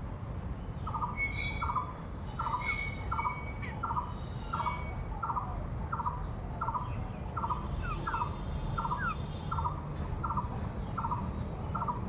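A bird calling one short note over and over, about twice a second, with higher chirps from other birds in the first few seconds, over a steady low rumble.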